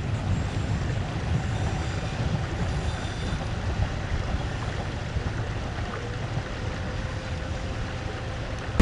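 Low, steady rumble of a train passing at a level crossing, slowly fading as it moves away, with wind buffeting the microphone.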